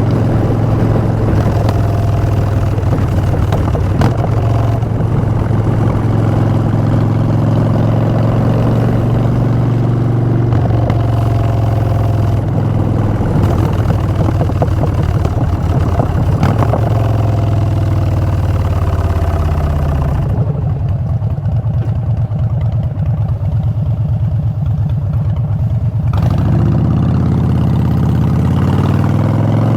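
Harley-Davidson Street Bob's Twin Cam 103 V-twin through Vance & Hines Short Shots exhaust, running at a steady pace. About two-thirds of the way through the engine note falls as the bike slows, it idles low for several seconds, then the note rises again as it pulls away near the end.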